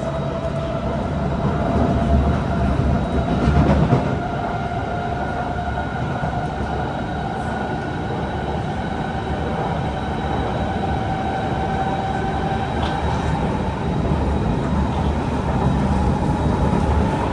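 Kawasaki C151 metro train running between stations, heard on board: a steady rumble of wheels on track under a drive whine that rises slightly in pitch. The rumble swells briefly a few seconds in.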